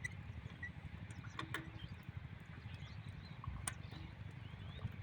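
Diesel engine driving a water pump, running steadily with a low, rapid chugging.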